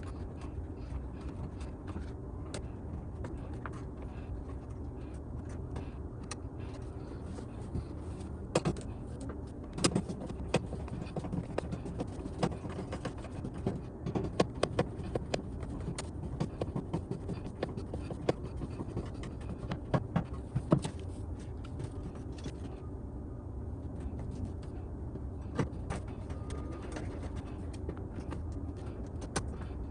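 Scattered clicks, knocks and light scrapes of car door parts being handled, busiest in the middle, over a steady low hum.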